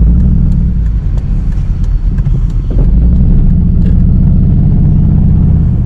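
Used Volvo car driving, with a steady low engine and road rumble heard from inside the cabin.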